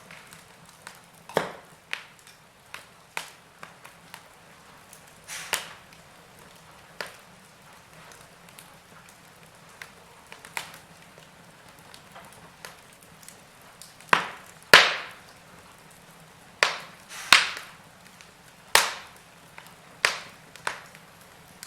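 Burning logs in a fireplace crackling: irregular sharp pops and snaps over a soft low hiss, with louder pops coming closer together in the second half.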